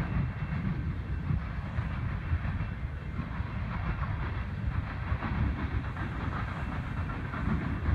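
Freight train cars rolling past, a steady rumble and rattle of steel wheels on the rails.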